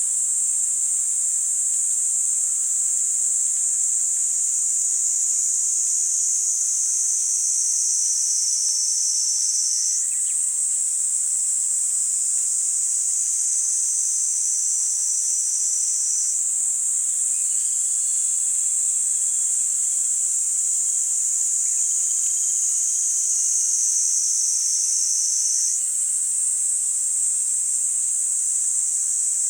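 Kaempfer cicada (niiniizemi) singing a continuous, high-pitched buzzing drone. Its pitch sinks slowly and jumps back up three times.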